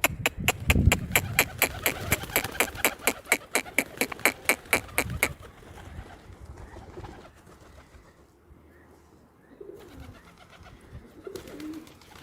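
A fast, even run of sharp clicks, about five a second, stops about five seconds in. Pigeons coo, with a few low coos near the end.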